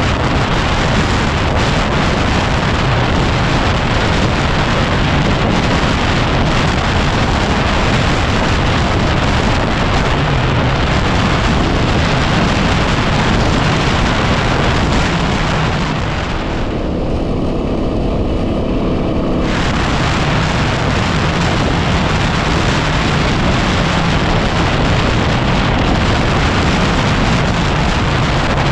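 Loud wind noise buffeting the microphone while riding a 2010 Yamaha WR250R, its single-cylinder engine running steadily underneath. A little over halfway through, the wind eases for about three seconds and the engine's note comes through more clearly.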